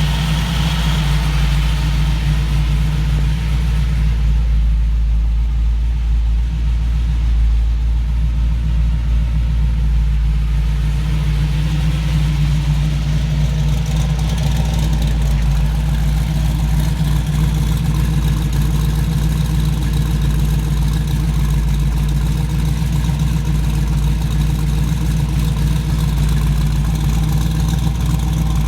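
Supercharged 421 cubic-inch small-block Chevy V8 with a Hampton 6-71 blower and twin Holley 750 carburettors idling steadily.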